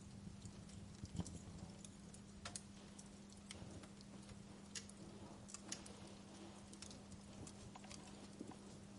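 Fireplace crackling: faint, irregular snaps and pops of burning wood, over a steady low hum.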